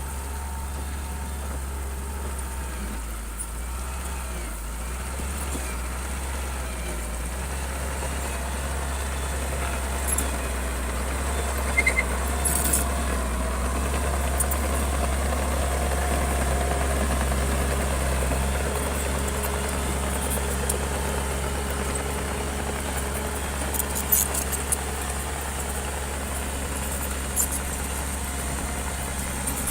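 Bulldozer's heavy diesel engine running with a steady low drone that swells a little in the middle, with a few short metallic knocks and clanks from the machine at work.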